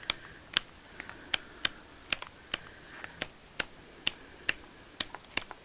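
Pages of a paper pad being flipped one after another, each giving a short sharp click, about two a second at an uneven pace.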